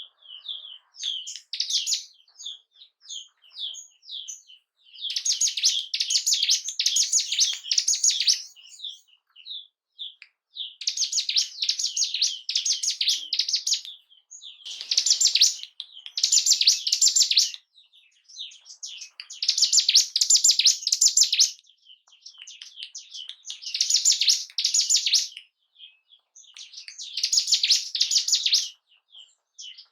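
Ciblek gunung (a prinia) singing: loud, rapid chattering song phrases of two to three seconds, repeated about every four seconds, with single short high notes between them.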